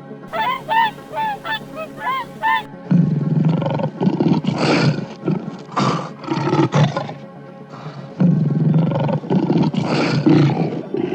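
Short honking calls repeated about three times a second for the first two and a half seconds, then a big cat roaring and snarling in two long, loud spells.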